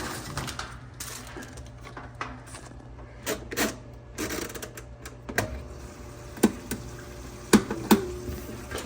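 Scattered sharp clicks and knocks from handling the old Kenmore direct-drive washer, the loudest three coming in the second half with a brief ring after them. A low steady hum runs underneath.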